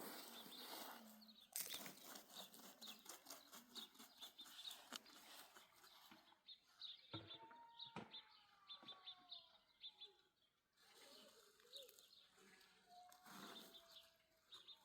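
Faint outdoor sound of small birds chirping in short repeated notes, with a few longer gliding calls in the second half, over scattered light clicks and knocks that are densest in the first half.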